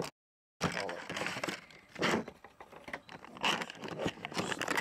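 Plastic blister packaging and its cardboard backing crinkling and tearing in irregular bursts as a die-cast toy truck's package is cracked open, after about half a second of dead silence at the start.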